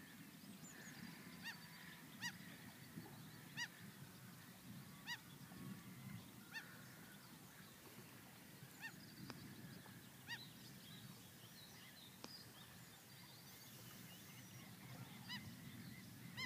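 Faint, short, clear bird calls, repeated a dozen or so times at irregular intervals, fewer toward the middle, over a low steady background.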